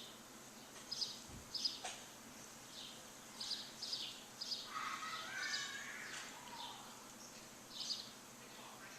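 Wild birds calling: short, high, falling chirps repeated at irregular intervals, with a lower, more complex chattering call about five to six seconds in, over steady background hiss.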